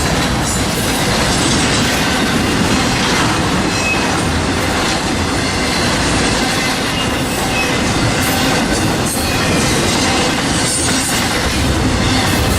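Norfolk Southern train rolling steadily past, its cars' wheels clattering on the rail joints, with a few brief faint wheel squeals.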